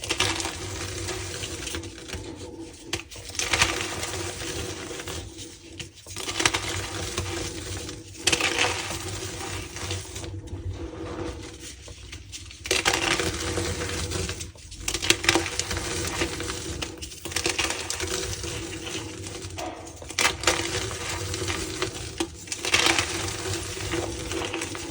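Reformed gym chalk blocks being crushed and crumbled, a series of crisp crunches that come in bouts every few seconds with short pauses between.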